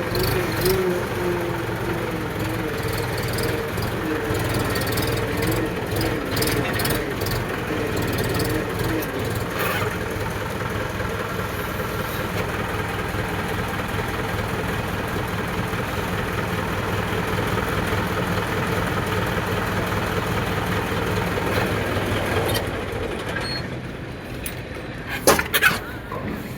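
Diesel tractor engine running steadily at low revs, with a wavering drone on top, then dropping away about four-fifths of the way in. A few short, sharp loud sounds come near the end.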